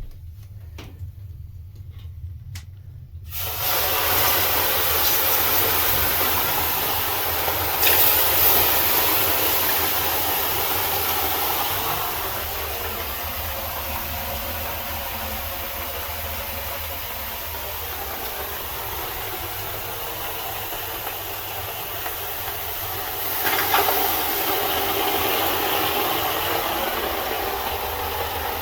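A few faint ticks, then a sudden loud hiss about three seconds in: water ladled onto hot sauna stones flashing into steam. The hiss keeps going, with fresh surges about eight seconds in and again after about twenty-three seconds as more water goes on.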